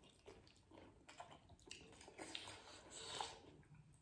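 Faint chewing and wet mouth sounds of people eating chicken momo dumplings, with small soft clicks and smacks, a little louder about two seconds in.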